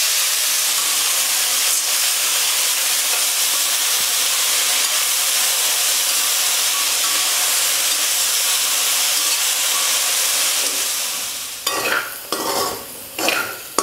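Diced potatoes sizzling loudly in hot oil in a stainless steel kadai, just tipped in. The steady sizzle dies down about eleven seconds in, when a spatula starts scraping and knocking against the pan as the potatoes are stirred.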